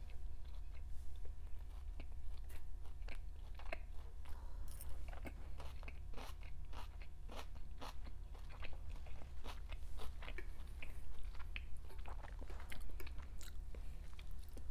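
A person chewing a mouthful of food close to a clip-on microphone: a steady run of many short, wet mouth clicks and crunches, over a faint steady low hum.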